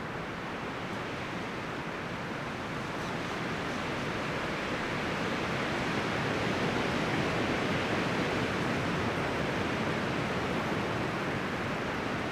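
Wind rustling the leaves and branches of forest trees, a steady rush that swells into a stronger gust about halfway through.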